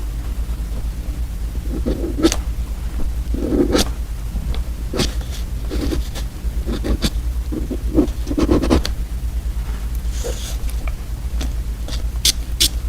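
Close-miked ASMR eating of edible candy paper and pen: scattered crisp crunches and crackles between short bursts of chewing, with a quick run of crunches near the end. A steady low hum lies under it all.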